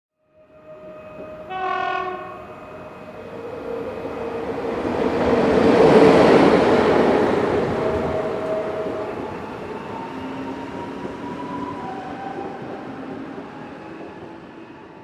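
A train sounds its horn in one short blast, then rumbles past, the noise swelling to a peak a few seconds later and slowly fading away.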